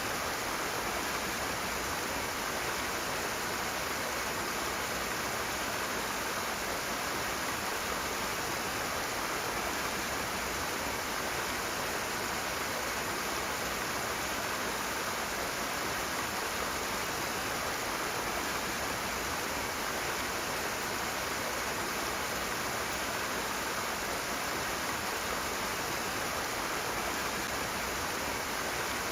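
Rushing water: a steady, unbroken rush.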